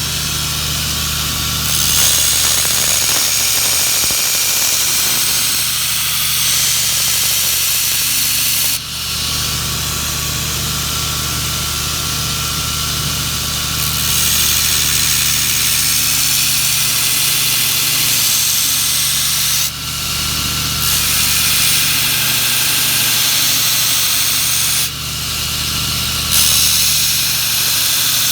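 Knife grinder motor running steadily while a steel knife blade is pressed to the wheel in several passes of a few seconds each, a high grinding hiss rising and falling over the motor's hum as the bevel is ground.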